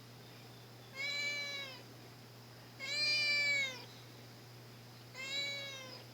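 Domestic cat meowing three times, each meow drawn out for close to a second, the middle one the longest and loudest.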